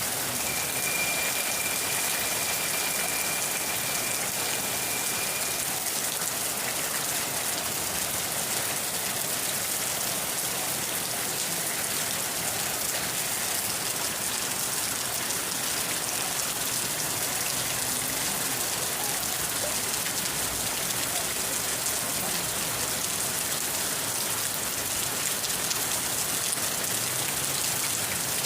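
Steady rain falling, an even hiss of drops on surfaces. For the first few seconds a faint, thin, high steady tone sounds above it, then stops.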